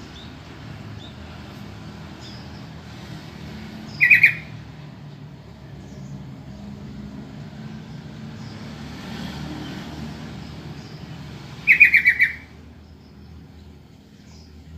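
Sooty-headed bulbul (trucukan) calling: a short burst of quick notes about four seconds in, and a longer run of about five quick notes near the end, over a steady low rumble.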